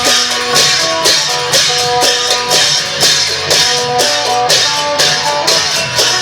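Isan folk music: an amplified phin (northeastern Thai plucked lute) plays a running melody over a klong yao long-drum ensemble's percussion, which keeps a steady beat of about two strokes a second.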